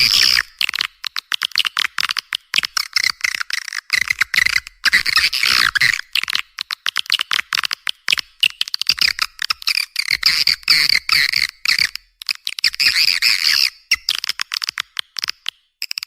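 Recorded swiftlet calls played as a lure track for a swiftlet house: rapid trains of sharp clicks and high twittering chirps in bursts with short gaps, with almost nothing below a high pitch.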